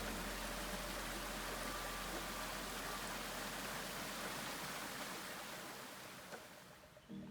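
Rushing water of a river or stream, a steady hiss that fades out over the last couple of seconds.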